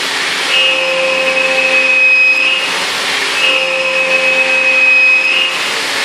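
CNC milling machine with a 3-flute endmill spinning at 8,000 rpm, trochoidal milling 6082 aluminium. A high, steady whine holds for about two seconds, then breaks into a rougher hiss for under a second, and the cycle repeats about every three seconds as the tool loops around the pocket.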